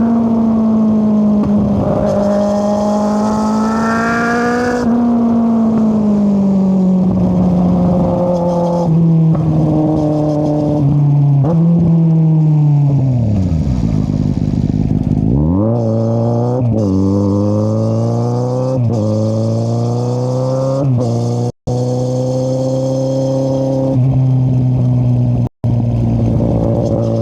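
2013 Kawasaki Z800's inline-four engine through an Akrapovic exhaust with the dB killer removed, revving under way. Past halfway the pitch sinks low as the bike slows, then climbs and drops several times as it pulls away through quick upshifts. The sound cuts out for an instant twice near the end.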